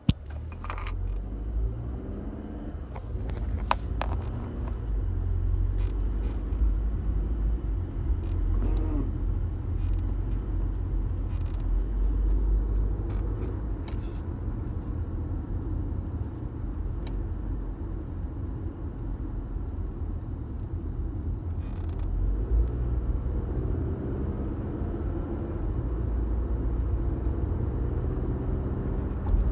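An engine running steadily, its pitch drifting up and down at times, with a few short clicks.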